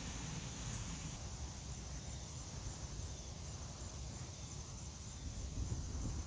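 Outdoor ambience: a steady low rumble with a continuous high-pitched hiss above it.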